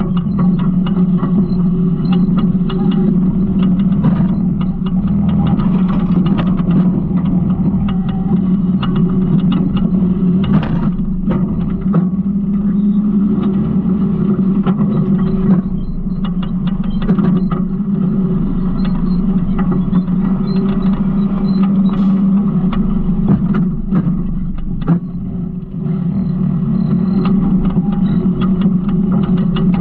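Garbage truck engine running steadily with a strong low hum, with many small rattles and knocks over it. It dips briefly about 25 seconds in.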